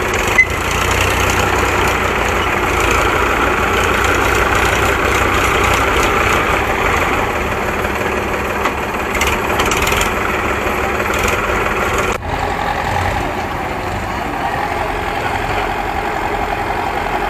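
Heavy diesel engine running steadily, with a brief dropout about twelve seconds in, after which the engine sound goes on a little lower in tone.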